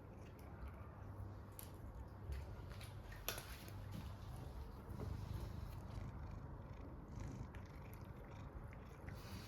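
Tabby cat purring in a faint, low, steady rumble, with a few small clicks, one sharper than the rest about three seconds in.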